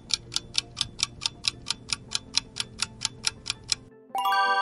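Countdown-timer sound effect: a clock ticking briskly, about four ticks a second, over faint background music, ending near the end with a short bright chime signalling that time is up.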